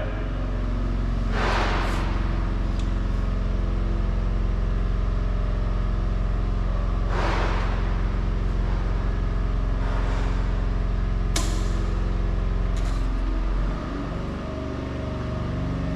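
Generator engine running steadily at raised speed, with a deep hum and several steady tones. Brief hissing sweeps come twice and a sharp click once. Near the end the low hum drops away and the engine's note changes.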